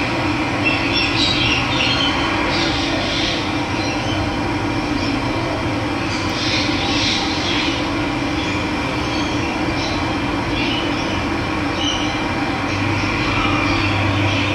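Steady rushing of running water, with birds chirping here and there above it.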